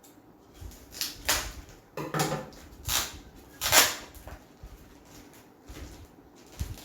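Packaging being pulled open and removed from a parcel by hand: a handful of short rustling, tearing scrapes, the loudest about four seconds in.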